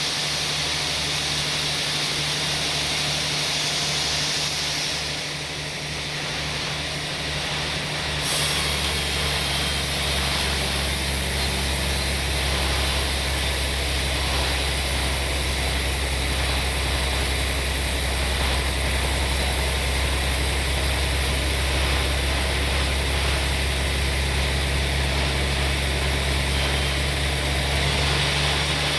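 Sawmill machinery running steadily: a low engine hum under a hiss. About eight seconds in, the hum grows steadier and a little louder while the high hiss drops away.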